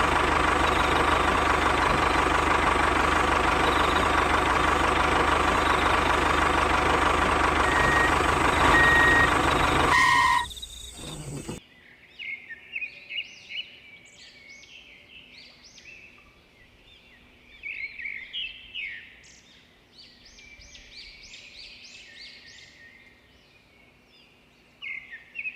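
A loud, steady engine drone that cuts off about ten seconds in. Then many small birds chirping over a faint low hum.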